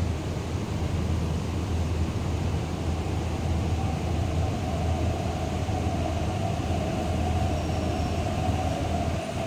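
MTR East Rail Line electric train pulling into the platform, over a steady low rumble. A steady whine joins about three and a half seconds in as the train draws in.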